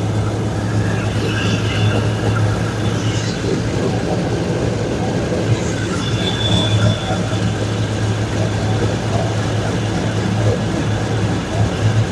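A 2002 Chevrolet Silverado's engine idling steadily with a low, even hum. The truck has a known exhaust leak at this point.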